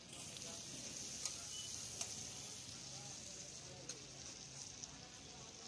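Fish pieces sizzling in oil on a large flat griddle, a steady high hiss, with a few sharp clicks of the steel bowl against the griddle.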